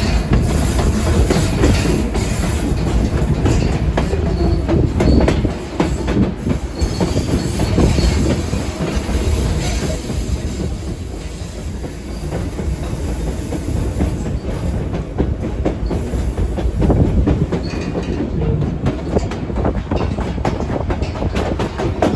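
White Pass railroad passenger train rolling along the track: a steady low rumble with the wheels clicking over the rail joints.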